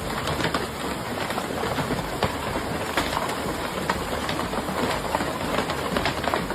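Large hailstones pounding down, a dense steady clatter of impacts with many sharper single hits standing out.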